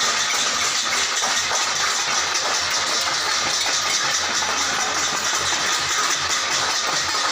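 Many people banging steel plates and ringing bells together at once, making a dense, steady clatter.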